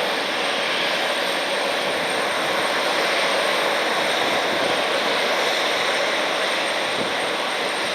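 Jet airliner engines running at taxi power: a constant, even rush of engine noise with no change in level.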